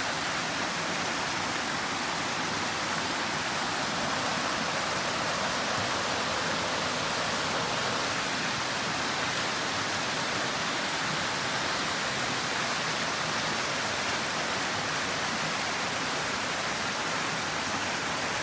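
Steady rushing of falling or flowing water, an even hiss that holds unchanged throughout.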